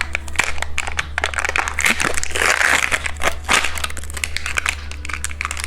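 Plastic packaging crinkling and rustling with many small irregular clicks, as a surprise egg's contents are unwrapped by hand.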